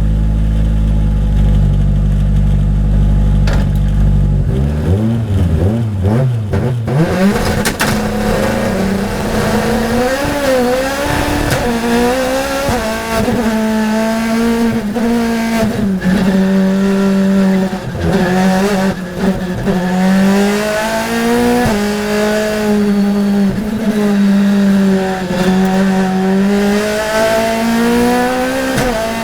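Racing car engine holding a steady low note for about four seconds, then revving hard and accelerating, its pitch repeatedly climbing and dropping back with gear changes and corners.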